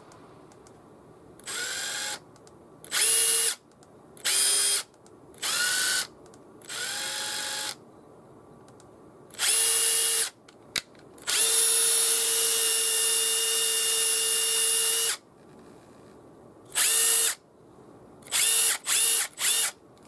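Makita TD171D cordless impact driver's brushless motor run unloaded in a series of trigger pulls, some softer and some louder, with one longer run of about four seconds and three quick bursts near the end. It spins freely without hammering.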